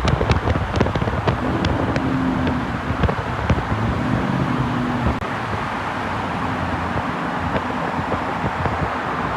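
Ford Mustang GT V8 exhaust popping and crackling in sharp bursts for the first three seconds or so, then running on steadily with road and wind noise.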